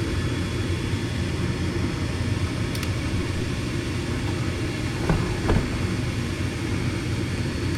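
Gas furnace draft inducer motor running steadily, purging the heat exchanger before the hot surface igniter comes on. Two faint clicks about five seconds in.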